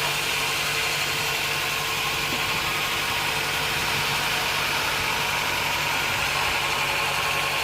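Sawmill machinery running steadily, a constant mechanical hum with several steady tones over a noisy hiss.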